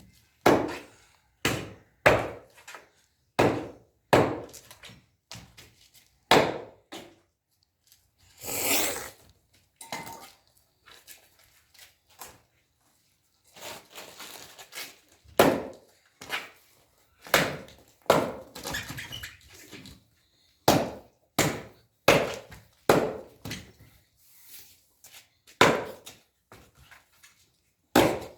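Firewood being handled for a bonfire: a long series of sharp wooden knocks and thunks, roughly one a second, with a brief lull near the middle.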